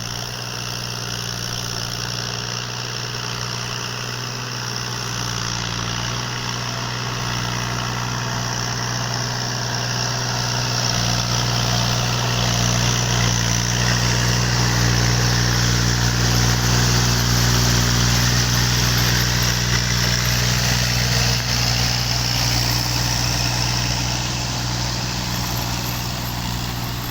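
Tractor engine running steadily at a constant pitch. It grows louder to a peak about two-thirds of the way through, then eases off toward the end.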